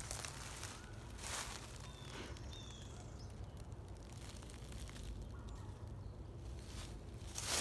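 Occasional footsteps and rustling in leaf litter on a woodland path, with a couple of faint bird chirps and a low steady rumble of wind on the microphone.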